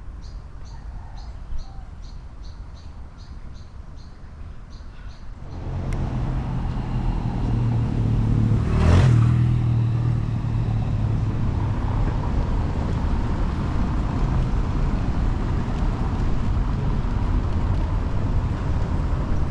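Street sound: a bird chirps over and over at an even pace in quiet surroundings. About five seconds in, road traffic comes up, one vehicle passes close around the middle, and steady traffic noise follows.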